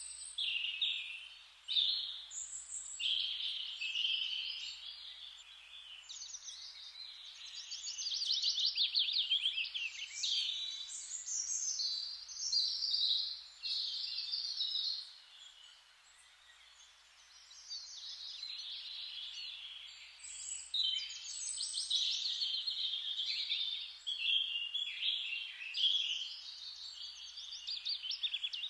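Several songbirds singing together in a dawn-chorus-like mix of overlapping chirps and fast trills, with a brief lull about halfway through.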